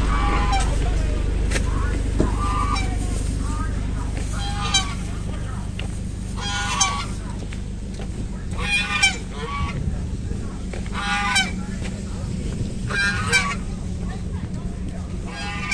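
Geese honking: about a dozen short calls a second or two apart, over a steady low rumble.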